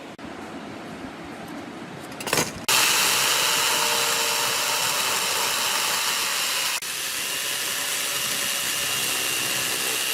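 Light rubbing on wood at first. About two and a half seconds in, the angle-grinder-driven sander comes in loud and runs steadily with a high whine.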